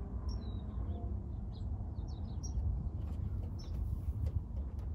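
Small birds chirping, short high calls repeated every half second or so, over a steady low rumble.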